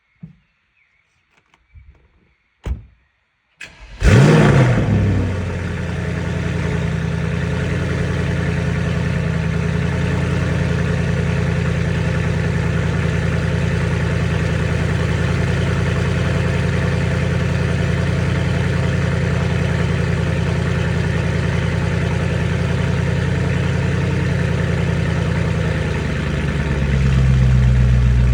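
Mercedes-AMG E63 S twin-turbo V8 cold start: a few faint clicks, then the starter catches about four seconds in with a loud flare of revs that settles into a steady high cold idle. Near the end the exhaust note deepens and gets louder.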